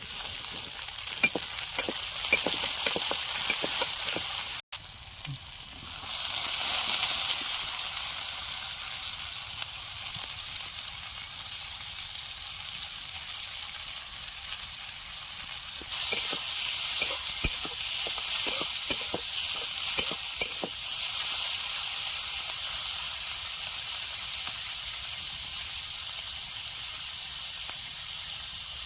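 Food sizzling steadily in hot oil in a pan. Clusters of sharp clicks and scrapes from stirring or turning come in the first few seconds and again about two-thirds of the way through.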